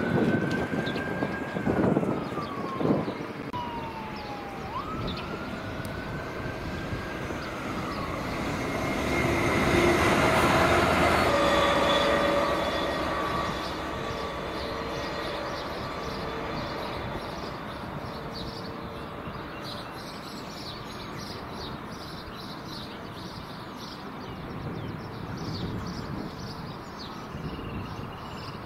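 Train running noise with a siren wailing in slow rising and falling sweeps for the first eight seconds, then a rush of passing train noise, loudest around ten seconds in. A Class 66 diesel locomotive's two-stroke V12 engine follows, humming steadily as the locomotive approaches.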